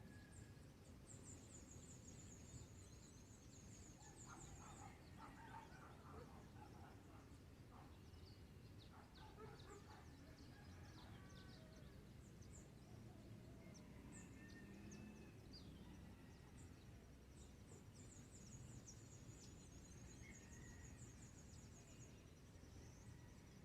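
Faint birdsong: several birds calling, with two bouts of rapid high trills, scattered high chirps and, twice, a lower rapid stuttering call. A thin steady high tone joins in near the end over a low background rumble.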